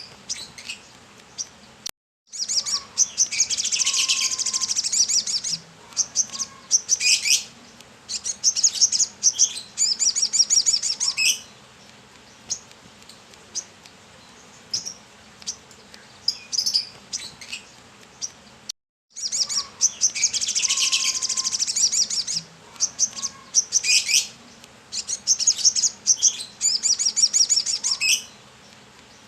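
Brown-throated sunbird (kolibri kelapa) singing vigorously: bouts of rapid, high twittering trills a few seconds long, with scattered single chirps between them.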